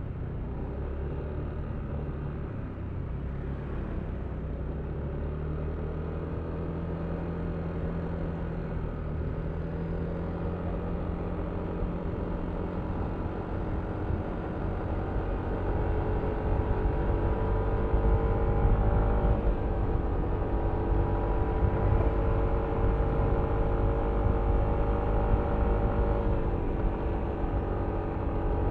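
Yamaha Aerox V3 scooter's 155 cc single-cylinder engine and CVT running under way. Its note climbs and grows louder about halfway through, then holds higher with a slight drop near the end.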